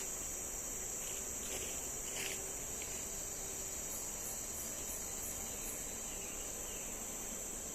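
Steady high-pitched chorus of forest insects, a constant shrill drone, with a few faint knocks about one and a half to two and a half seconds in and a quick run of five short higher chirps a little past the middle.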